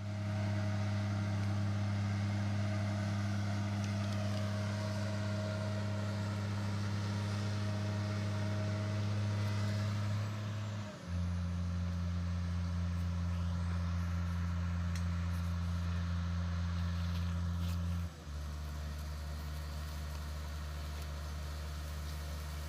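Heavy diesel engine running steadily with a low drone. The drone changes abruptly to a slightly different pitch and level about 11 seconds in and again about 18 seconds in.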